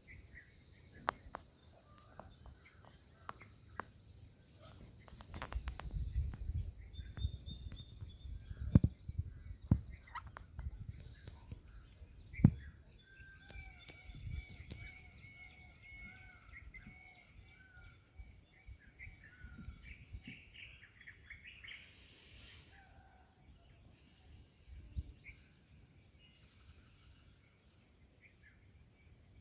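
Small birds chirping and calling over a steady high insect chorus, with scattered knocks and low rumbles in the first half.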